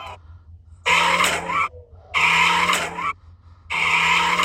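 Tyres squealing and skidding in three bursts of about a second each, as a Dodge Charger Scat Pack slides.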